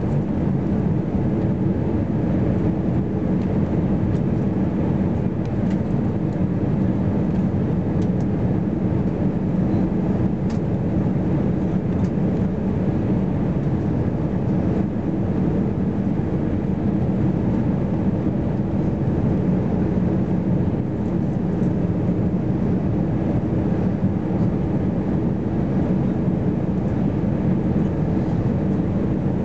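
Steady drone of engine and airflow noise inside an Airbus A320-214 airliner's cabin, with no change in pitch or level.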